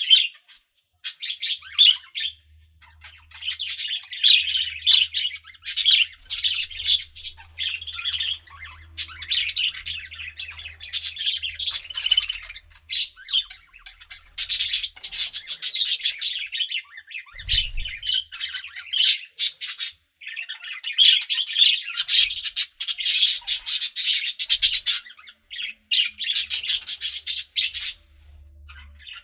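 Pet budgerigars chirping and chattering in bursts of rapid, high warbling calls and squawks, with short pauses between bursts.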